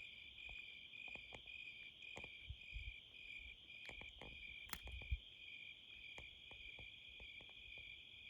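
Crickets chirping in a faint, steady chorus of evenly pulsed high chirps, a little over two a second, over a continuous high trill. A few faint clicks and taps are scattered through it.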